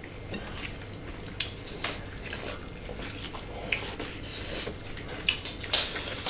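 Close-miked eating sounds: wet chewing and crunching of pork salad with fresh lettuce, heard as scattered, irregular crackles and clicks.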